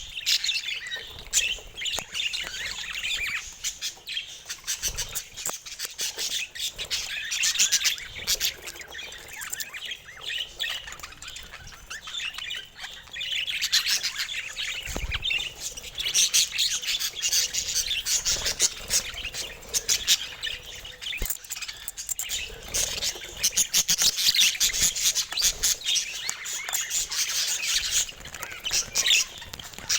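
Several budgerigars chattering continuously in quick, high chirps, clicks and squawks, getting busier about halfway through.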